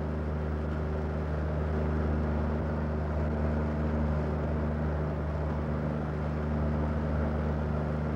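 An engine running at a steady speed: a constant low drone with no change in pitch.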